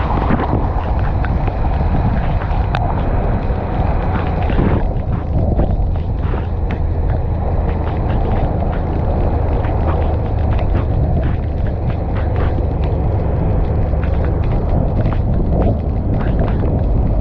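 Motorcycle under way: a steady, loud low rumble of wind buffeting the GoPro action camera's microphone, with the bike's engine and road noise beneath it.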